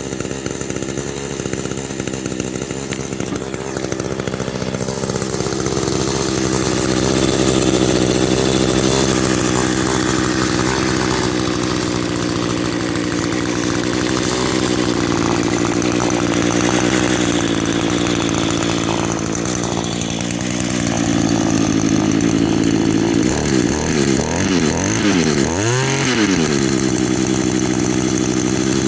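Echo string trimmer's small two-stroke engine running steadily, warmed through after a cold start. Near the end its pitch swings up and down several times.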